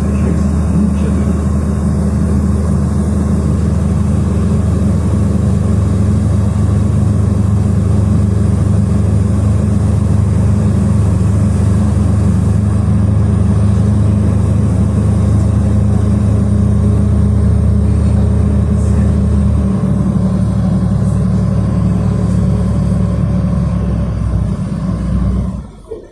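City bus driving along, heard from inside the passenger cabin: a steady low engine and road hum. One of the deepest notes drops out about twenty seconds in, and the noise falls away sharply near the end.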